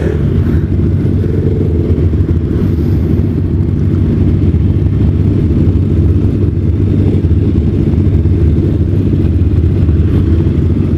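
Kawasaki ZX-6R 636 sport bike's inline-four engine running steadily at an even pace, with no revving, as a loud low rumble.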